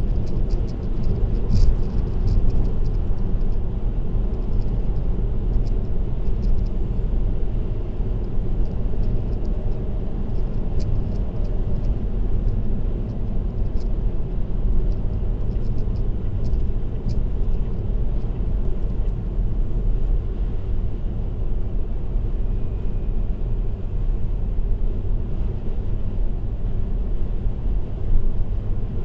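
Steady low road and tyre rumble of a car cruising on an expressway, heard from inside the car through a dashcam. Small faint ticks come and go over the first half.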